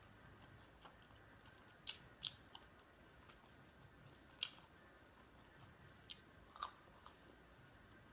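A person chewing food close to the microphone, faint, with about five short mouth clicks spread through it.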